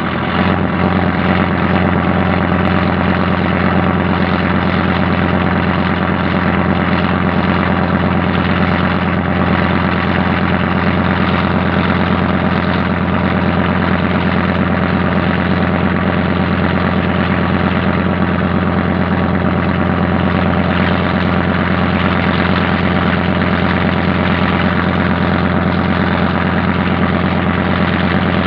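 A boat's engine running steadily: a loud, even, low drone that rises slightly just after the start and then holds unchanged.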